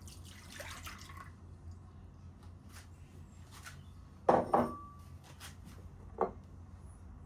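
Kitchen work: a short swish of liquid being poured or splashed, then several sharp clinks of dishes. Two close together come about four seconds in, one ringing briefly, and another comes about two seconds later.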